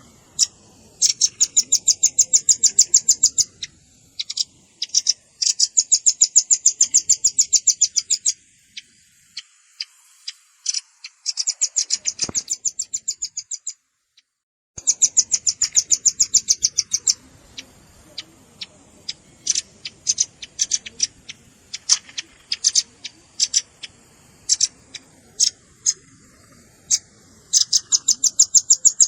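Velvet-fronted nuthatch calls from a lure recording: fast trills of high, sharp chips, each run lasting two to three seconds, with single chips scattered between the runs. The sound drops out briefly about halfway through.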